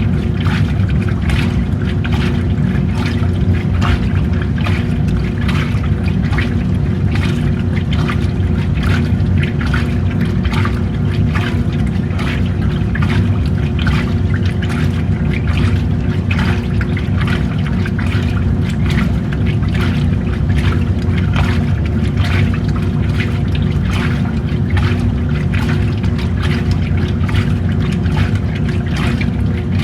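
Washing machine running, its water churning and sloshing over a steady motor hum.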